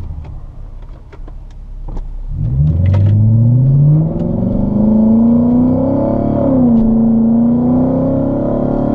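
Lexus GS460's V8 engine accelerating, heard from inside the cabin, with a few clicks in the quieter first couple of seconds. From about two seconds in the engine note climbs steadily, drops at a gear change around six and a half seconds in, then holds steady.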